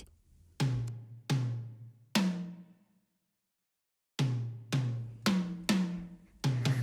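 A series of single deep drum hits, each ringing out and fading: three evenly spaced, a pause, then five more a little quicker.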